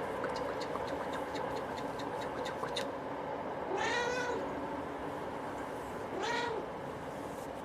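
A cat meowing twice, two short calls that rise and fall in pitch, about four and six and a half seconds in. Light clicking in the first three seconds, over a steady background hiss.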